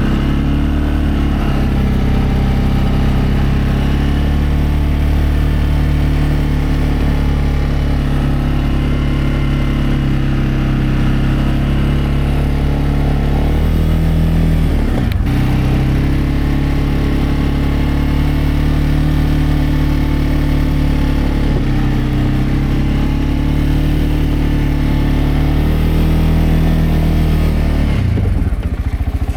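CFMOTO CForce 520L ATV's single-cylinder engine running steadily in the cold, with a brief dip and recovery in the engine note about halfway through.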